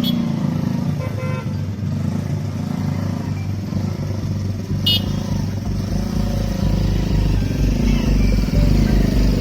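Busy road traffic: motorcycle and vehicle engines running steadily, with a brief horn beep about five seconds in and a fainter one about a second in.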